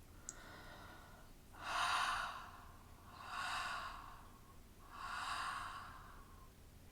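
A woman's slow, breathy exhalations as wordless vocal play: four drawn-out airy breaths, each swelling and fading over about a second and a half. The first is faint and the last three are louder.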